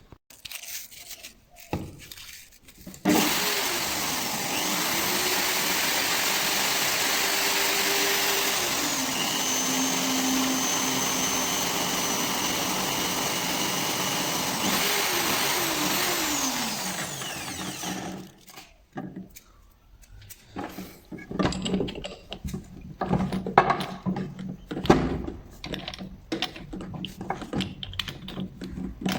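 Electric drill starting suddenly, running steadily under load for about fifteen seconds, then winding down and stopping. Scattered clicks and knocks follow as metal parts are handled.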